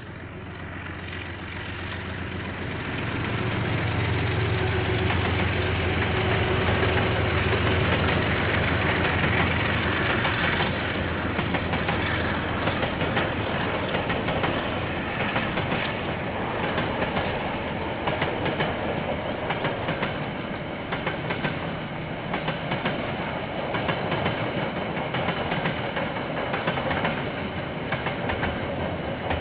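KiwiRail diesel train passing, heard through a security camera's microphone: the locomotive's engine hum swells over the first few seconds, then the wagon wheels clatter on in a steady run of clicks over the rail.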